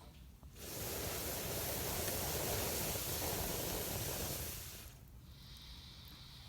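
Campfire with a rushing hiss that swells in about half a second in, holds for about four seconds and fades away, over the fire's quieter steady sound.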